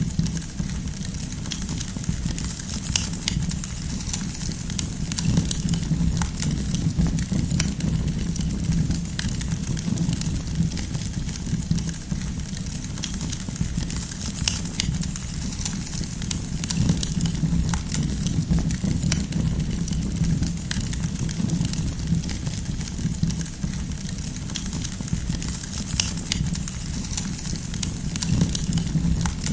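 Wood fire burning steadily with a low rumble and frequent small, irregular crackles and pops of burning firewood.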